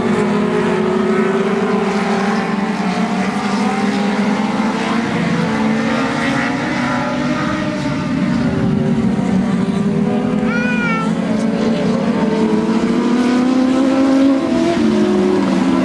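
A pack of dwarf race cars running laps on a short oval, several motorcycle-based engines heard at once, their pitches rising and falling as the cars pass and work the corners. A brief high wavering tone sounds about ten seconds in.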